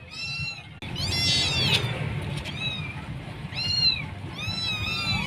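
Young kittens meowing over and over in short, high-pitched cries, several voices overlapping about a second in: the crying of kittens separated from their mother.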